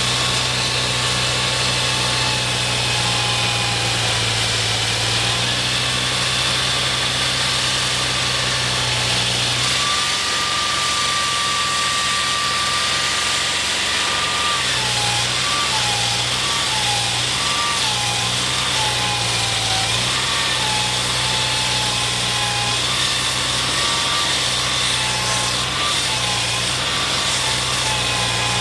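An engine running steadily at an even speed, with a whine above it that wavers in pitch from about halfway through.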